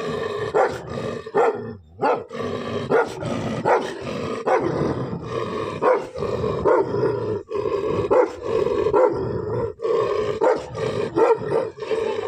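Dog growling continuously, broken by short sharp barks that come about once or twice a second.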